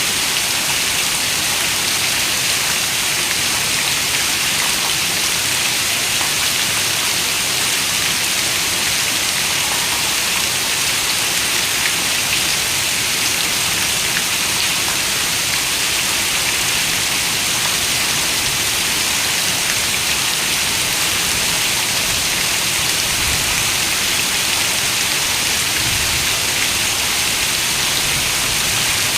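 Heavy rain falling steadily on a window: a constant hiss with scattered drop ticks.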